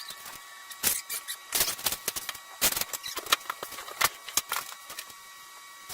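Irregular sharp clicks and taps, a few a second, from hand work with tools or building materials, over a faint steady high tone.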